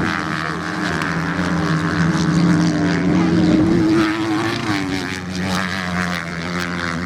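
Racing motorcycle engines running at speed, several pitches at once, rising and falling slightly as the bikes go round.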